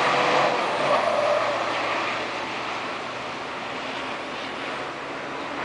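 Diesel race truck engine passing at speed, loudest in the first two seconds, then fading to a steady lower level as it moves away.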